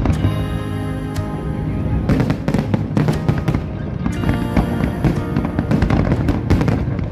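Fireworks shells bursting in quick succession, many sharp bangs over a loud music soundtrack of a choreographed fireworks display.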